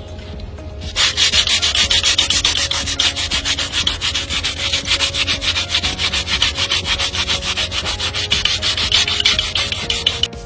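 Hoof being filed with a rasp: fast, even scraping strokes that start about a second in and stop just before the end, over a steady low hum.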